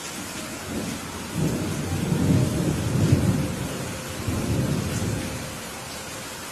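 Steady heavy rain with a roll of thunder that swells about a second in, rumbles loudest in the middle with a second surge near five seconds, and dies away before the end.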